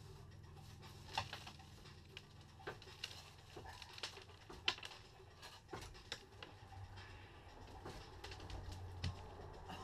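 Faint, irregular light clicks and taps, a dozen or so scattered through, over a low steady hum.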